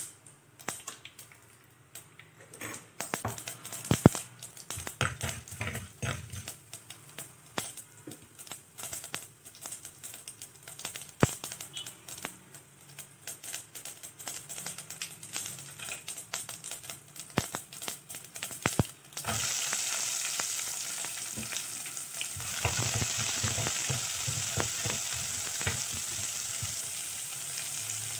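Seasoning crackling and popping in hot oil in a pot, as scattered sharp crackles. About nineteen seconds in, a steady frying sizzle starts suddenly as sliced shallots go into the hot oil, and it grows louder a few seconds later.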